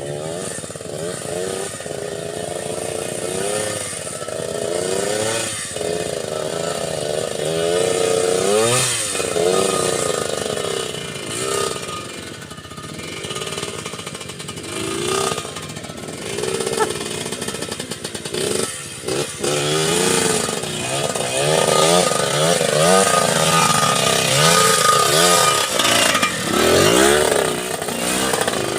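Small motorcycle engine revving up and down again and again, its pitch rising and falling in quick surges, as it works along a very slippery road.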